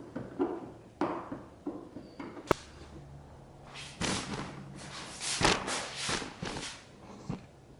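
A series of knocks and thuds, one sharp click, then a cluster of scraping, rustling strokes, as of objects being handled and moved.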